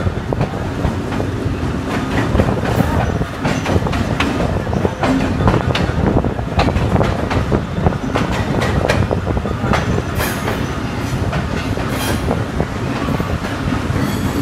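Passenger train coach heard from its open door or window as the train runs along a station platform: a steady running rumble with wheels clacking over rail joints throughout.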